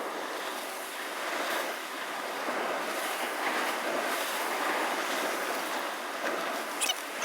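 Sea surf washing in, a steady rushing wash that swells and eases every second or two, with a few short clicks just before the end.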